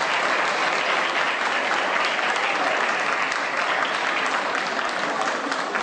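Concert audience applauding steadily, dense clapping right after the band's final chord.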